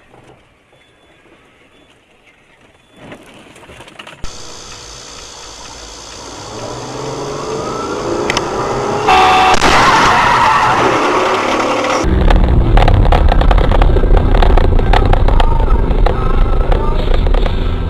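Car engine and road noise, getting louder, changing abruptly several times as one stretch of driving gives way to another, with an engine's pitch rising and falling.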